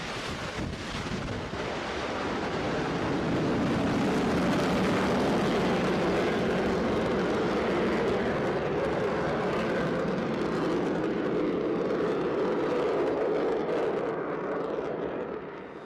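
F-35B Lightning II's Pratt & Whitney F135 jet engine running, a steady jet noise that swells about two seconds in and fades near the end.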